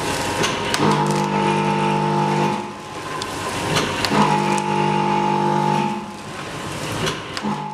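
Automatic tempe packaging machine working through its cycles: a motor hum that runs for about two seconds, stops, and starts again about three and a half seconds later, with sharp mechanical clicks and clacks around each start and stop.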